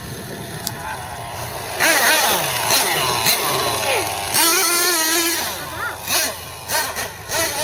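Team Associated MGT 8.0 nitro RC monster truck's small two-stroke glow engine revving, its pitch swinging up and down as it is driven, held at a high wail about halfway through.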